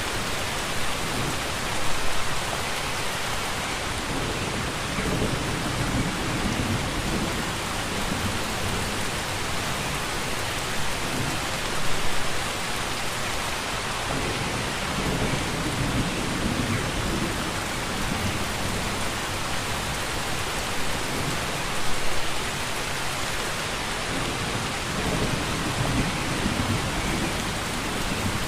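Steady heavy rain falling, with soft low rumbles of distant thunder swelling and fading every few seconds and brief louder surges about every ten seconds.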